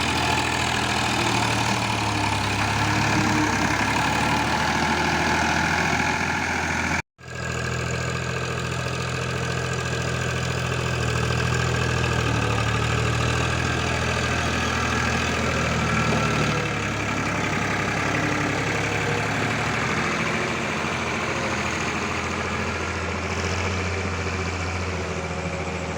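Escort tractor's diesel engine running steadily with a low, even hum. The sound cuts out for an instant about seven seconds in.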